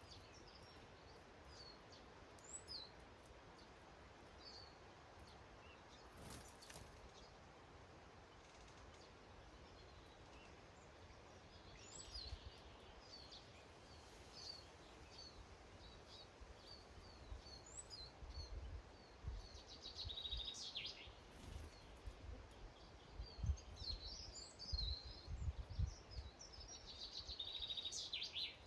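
Small garden birds chirping faintly at a feeder, with short high calls scattered throughout and a couple of quick rattling trills in the second half. A low uneven rumble comes and goes under the birds in the second half.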